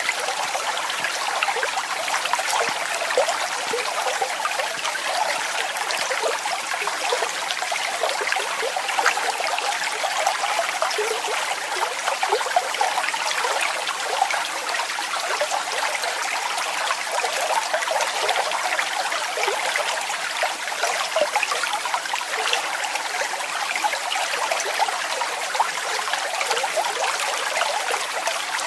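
Waterfall water splashing steadily, a bright, constant rush with little deep rumble.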